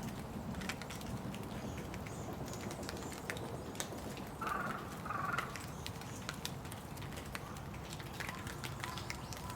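Rain falling, with many separate drops ticking and dripping over a steady low background hum. A bird calls twice in quick succession about halfway through.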